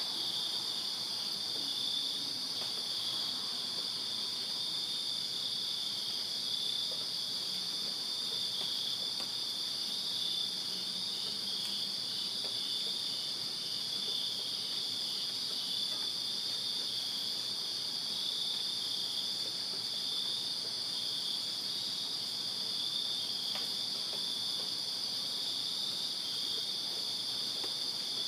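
A chorus of crickets chirping steadily: a constant high trill, with a second, pulsing chirp just below it.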